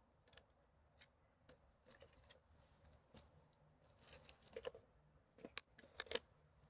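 Faint, scattered rustling and crackling, like dry forest-floor litter and rubbish being trodden on and handled. It grows busier after about four seconds, with a quick cluster of sharper snaps about six seconds in.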